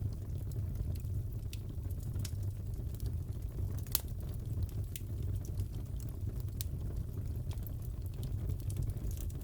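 Crackling fireplace: a steady low rumble of burning with scattered sharp pops and snaps, the sharpest about four seconds in.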